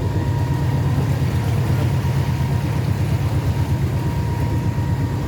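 River cruise boat's engine running steadily, a low, even drone.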